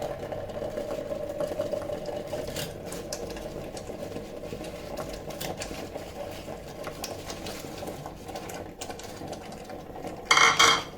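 Chicken pieces being added to a thickened sauce in an electric kettle, heard as scattered light taps and clicks over a steady hum. A short loud clatter comes near the end.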